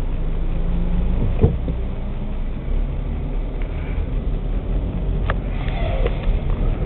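Mack LE recycling truck's diesel engine running steadily, with a sharp clank about a second and a half in and a click and brief squeak near the end.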